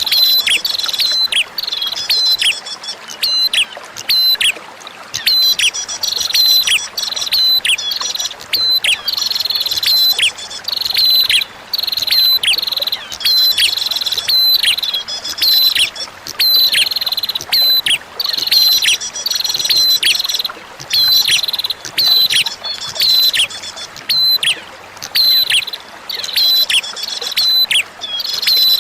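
Prinia (prenjak) calling in a rapid series of sharp, high chirps, each dropping quickly in pitch, about two to three a second, over a steady background of running water. It is a looped recording played to prompt a caged prenjak to sing.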